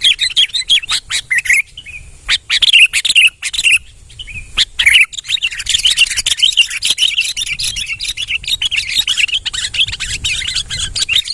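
Sooty-headed bulbul (kutilang) singing in a rapid, busy chatter of short high warbling notes, mixed with sharp clicks. Brief lulls come about two and four seconds in, and the song runs on without a break after that.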